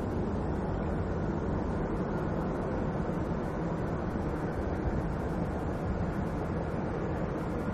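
Jet airliner engines, a steady rumble and hiss that holds an even level.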